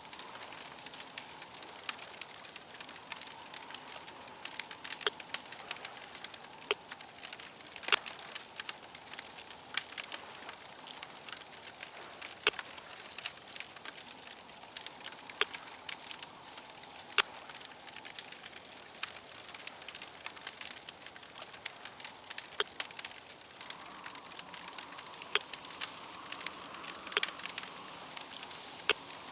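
A fire crackling: a steady soft hiss broken by many irregular sharp pops and snaps.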